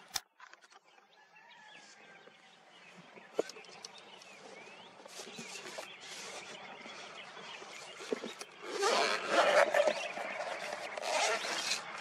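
Birds calling and chirping, with a sharp click at the very start; the calls grow louder and busier from about nine seconds in.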